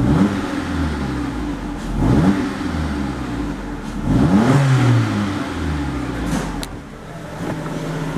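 2019 Jeep Compass 2.4-litre four-cylinder engine revved three times in quick succession, each rev rising sharply and falling back to idle, then running steadily.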